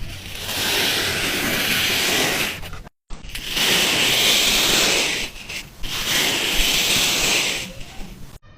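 Kinetic sand being worked, giving a grainy hiss in three long strokes of about two seconds each, with a brief silent break about three seconds in.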